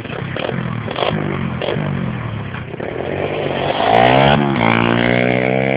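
Pit bike engine running with uneven throttle, then revving hard: the pitch climbs sharply about four seconds in and holds high before starting to fall near the end.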